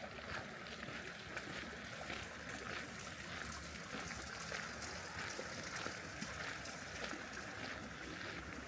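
Footsteps walking at a steady pace, about three steps every two seconds, over a steady background hiss.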